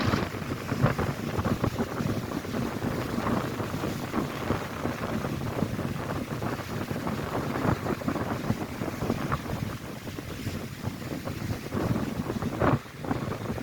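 Strong gusty wind buffeting the microphone over lake waves breaking on the shore, with a louder surge near the end.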